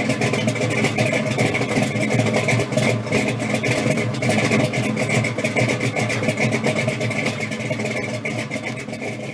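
A car engine running steadily, fading out at the very end.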